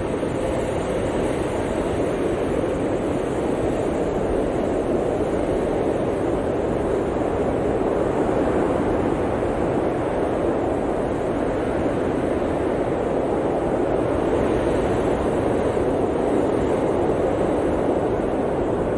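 Blizzard wind blowing steadily, a dense rushing noise that swells slightly a few times.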